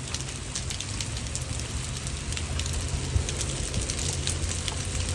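Quarter-size hail and rain falling hard, a steady hiss of rain dotted with many sharp clicks of hailstones striking hard surfaces, with one louder hit about three seconds in. A low steady hum runs underneath.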